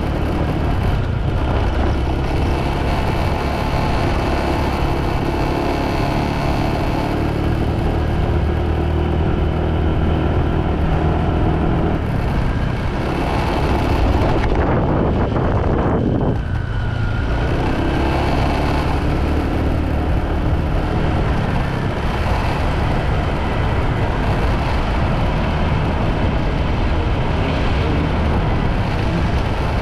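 Motorbike engine running at road speed under a dense rushing noise of wind and road. About halfway through, the engine note falls away and then picks back up.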